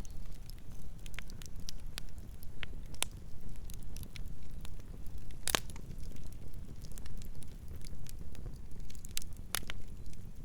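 Campfire burning with a low steady rumble and irregular sharp crackles and pops of burning wood, one louder pop a little past the middle.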